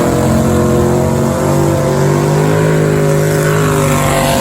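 Drag-racing car's engine running loud at high revs, its pitch holding fairly steady with small rises and dips.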